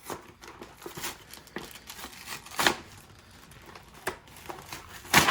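A shipping package being torn open by hand, its wrapping crinkling and tearing in a run of short rustles, with two louder, sharper sounds, one about halfway through and one at the end.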